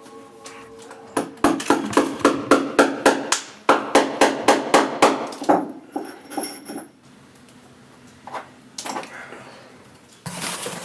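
A hammer striking in quick, even blows, about four a second, in two runs of several seconds. A few single knocks follow later.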